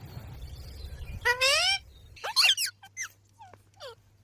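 Pet parrot calling: one high call rising in pitch a little over a second in, then a quick run of short, falling squawks and chirps that thin out toward the end.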